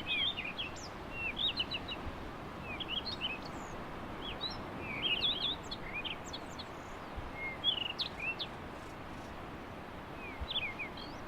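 Small birds chirping and twittering in quick, scattered short notes over a steady background hiss.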